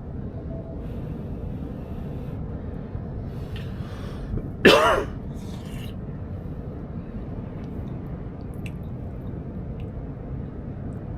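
Steady low rumble throughout, with one short loud burst of a person's voice about halfway through and a few faint clicks later on.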